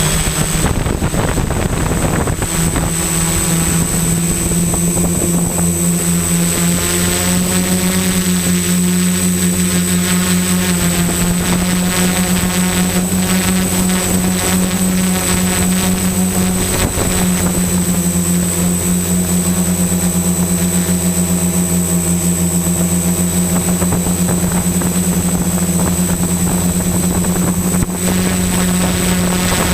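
XAircraft X650 Pro V4 quadcopter's electric motors and propellers humming in flight, with a steady high whine above them. The pitch shifts slightly a couple of times as the motors change speed.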